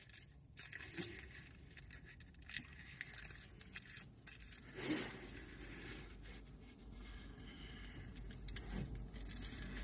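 Quiet background with a low steady rumble, a few faint clicks and rustles, and a brief swell of sound about five seconds in.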